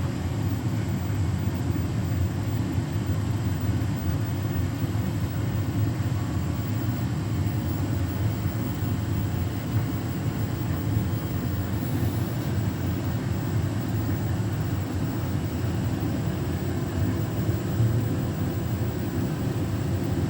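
Beko WTK104121W washing machine spinning: a steady, even hum with no knocks or pauses.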